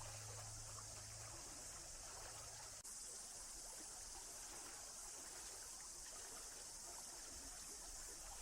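Faint, steady running water of a stream trickling. A low hum underneath stops about three seconds in, with a momentary drop in level.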